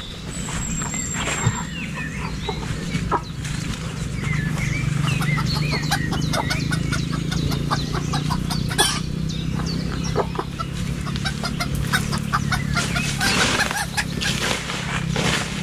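Wild chicken clucking and calling repeatedly in short notes, with one sharp knock about nine seconds in.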